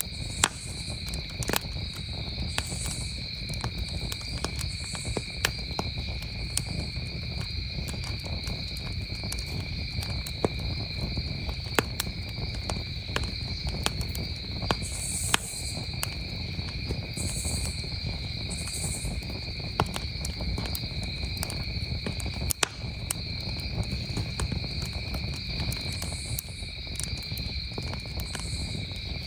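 Campfire crackling, with scattered sharp pops over a low steady rumble, under crickets trilling in a steady chorus at two pitches.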